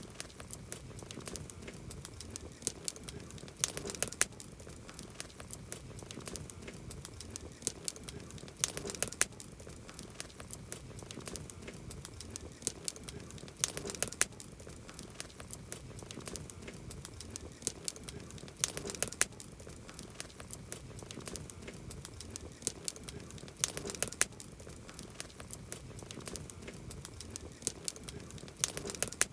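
Wood campfire crackling: a constant scatter of small snaps and pops over a soft hiss, with a cluster of louder sharp pops about every five seconds.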